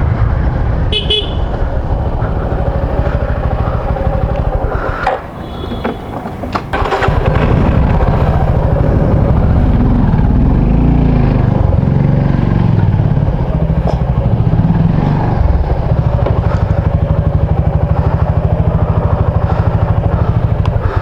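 Motorcycle engine running as the bike rides through traffic, with a steady low pulsing beat that eases off briefly about five seconds in and then holds steady. Two short horn beeps sound, about one and six seconds in.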